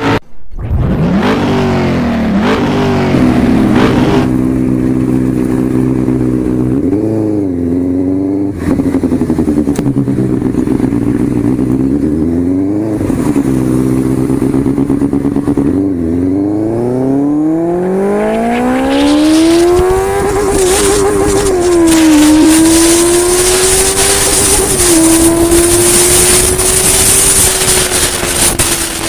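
Single-cylinder motorcycle engine idling with three quick throttle blips, then revving up steadily as the bike pulls away. It settles into running at speed with a couple of brief dips in pitch at gear changes, and wind rushes over the microphone.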